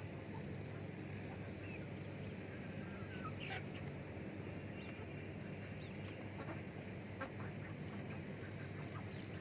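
Domestic ducks quacking softly now and then, with a few short clicks, over a steady low background noise.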